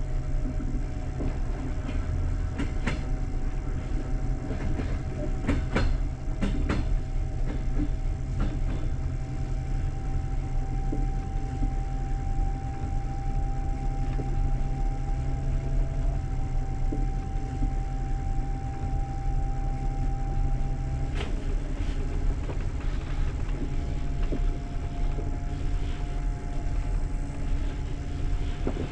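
Passenger train coach rolling along the track: a steady low rumble of wheels on rails, with a few sharp clicks and knocks and a faint steady whine that shifts pitch a few times.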